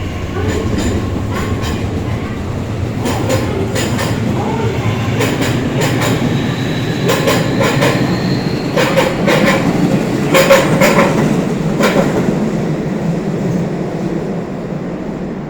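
JR Kyushu 811 series electric train pulling out of the station, its wheels clicking in quick pairs over rail joints and points above a steady running rumble, with a faint rising motor whine. The sound eases off near the end.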